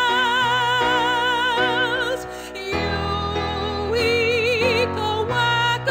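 A song: a high voice holds long notes with wide vibrato in an operatic style, over steady instrumental accompaniment.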